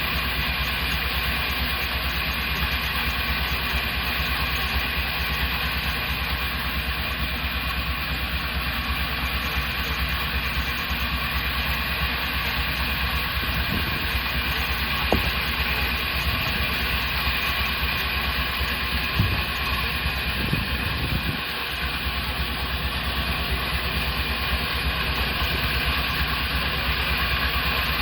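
Sawmill machinery running steadily with an engine-like hum, with a few faint knocks in the middle.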